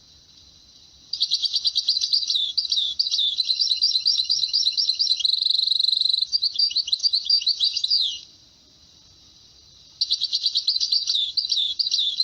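Finch song in two long phrases of rapid twittering trills, the first starting about a second in and lasting about seven seconds, the second starting near the ten-second mark.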